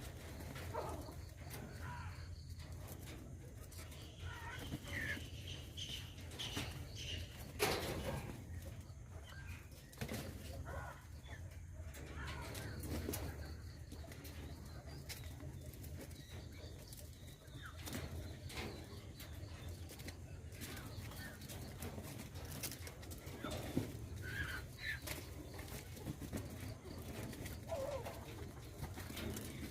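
Birds calling now and then in short, scattered calls, with a few sharp knocks, the loudest about a third of the way in, over a low steady hum.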